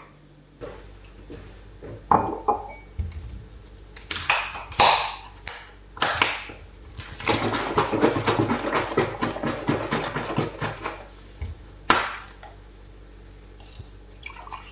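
Kitchen handling sounds: dishes and utensils knocking and clinking, with swishing movements and a few seconds of dense, rapid crackling in the middle, then a sharp knock.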